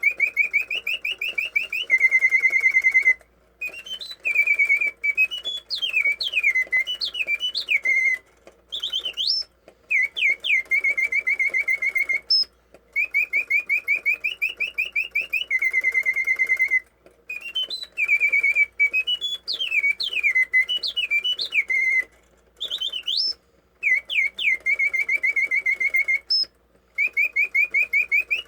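Birds singing in a brass cage: fast whistled trills held near one pitch alternate with rising and falling chirps, in phrases broken by short pauses. The whole song sequence repeats almost note for note about every thirteen seconds.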